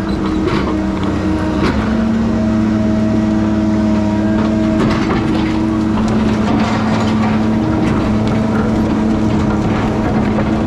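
Heavy logging equipment's diesel engine running at a steady speed, with scattered knocks and clanks from the machine at work.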